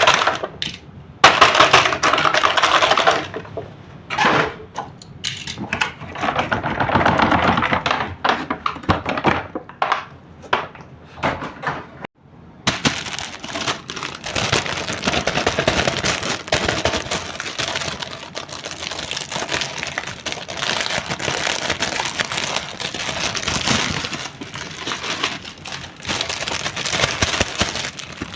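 Small plastic toy parts being handled, clicking and clattering in irregular bursts, then a dense, continuous rattle from about halfway through.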